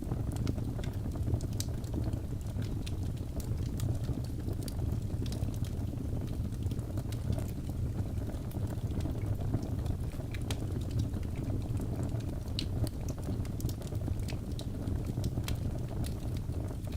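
Birch logs burning in a fireplace: a steady low rushing of the flames with scattered sharp crackles and pops every second or so.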